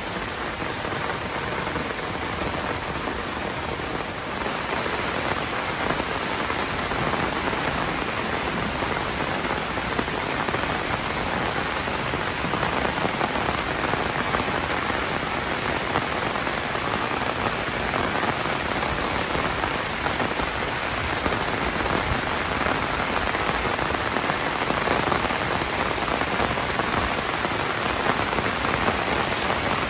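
Heavy rain falling in a steady, dense hiss, growing a little louder about four seconds in.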